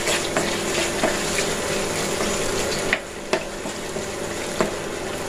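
Onion paste and ginger-garlic paste sizzling as they fry in hot oil in a nonstick pot, stirred with a spatula that scrapes and taps against the pan now and then. This is the masala being browned (kosha) in the oil.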